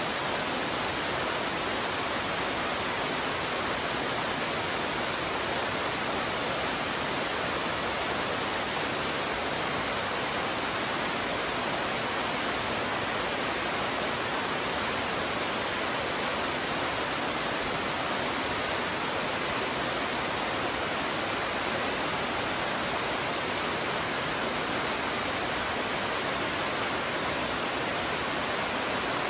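Steady, even rush of flowing water, with no change in level.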